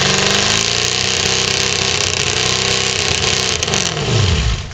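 Mud truck engine revving hard at high revs, with a dense rushing hiss, then the revs drop sharply about four seconds in.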